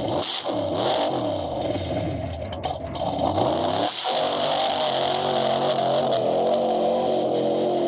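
Square-body mud truck's engine revving up and down several times, then held at steady high revs from about four seconds in, with the pitch wavering slightly.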